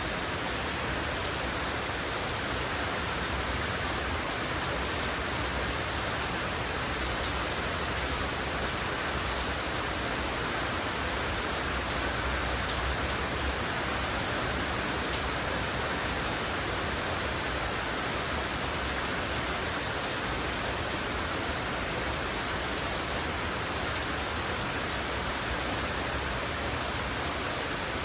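Heavy rain falling steadily, a constant even hiss of downpour on surfaces.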